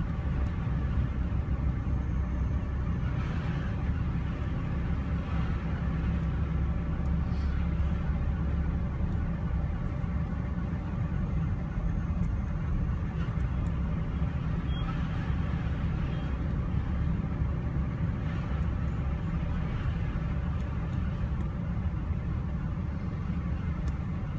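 A motor vehicle running steadily: an even low rumble that does not change throughout.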